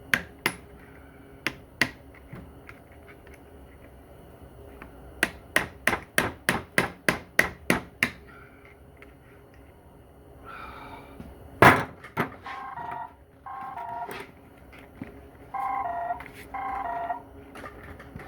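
A run of about nine sharp clicks, roughly three a second, then a single loud knock, as parts come off a transmission on the bench. For the last third a mobile phone rings, its ringtone coming in repeated short bursts of notes.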